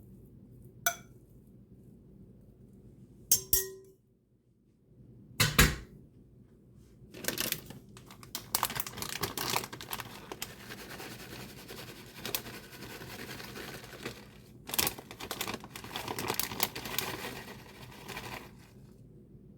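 A utensil knocks against a dish a few times, then scrapes steadily for about eleven seconds as the rice casserole mixture is scraped out and spread in the baking dish. The scraping comes as quick, irregular strokes.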